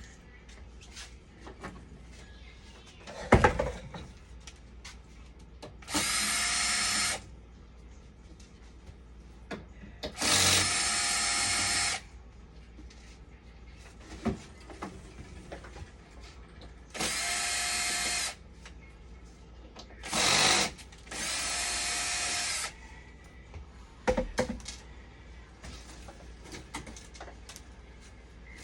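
Handheld power drill running in five short bursts of one to two seconds each, a steady motor whine each time. There is a sharp knock a few seconds in and some clatter near the end.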